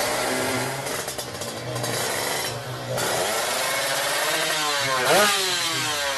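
Engine of a tuned 300 cc Kawasaki Ninja drag motorcycle, revving. The pitch climbs steeply to a peak about five seconds in, then falls away.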